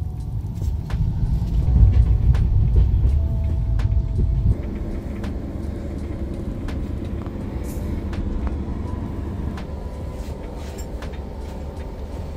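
Moving passenger train, heard from on board: a heavy low rumble for the first four and a half seconds, then after a sudden change a steadier, quieter carriage rumble with occasional sharp clicks.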